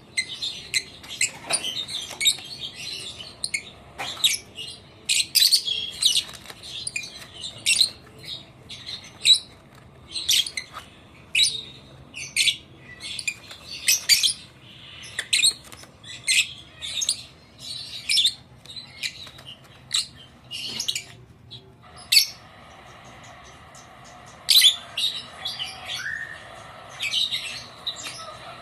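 Blue-mutation Fischer's lovebirds chirping: a steady run of short, shrill, high-pitched chirps, a few each second, with a brief lull about three quarters of the way through.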